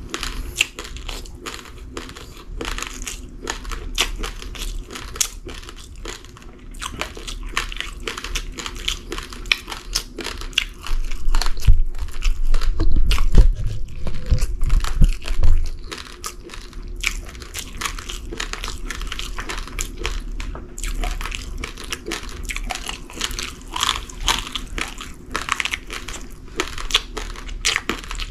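A person chewing uncooked rice grains, crunching them between the teeth in a dense run of small cracks and crackles. The chewing gets louder and heavier for a few seconds around the middle.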